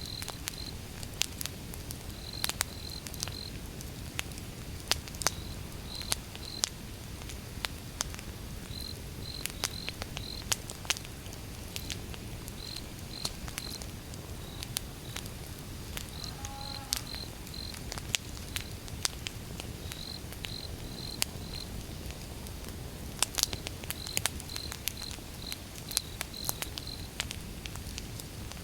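Wood fire burning, with irregular sharp crackles and pops over a low steady rumble. High insect chirps come in groups of three or four every second or two throughout.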